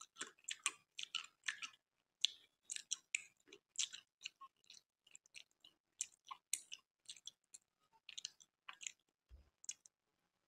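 Close-miked wet chewing of a mouthful of milky kheer with gulab jamun: a dense run of short mouth clicks and smacks, with a brief pause near the end.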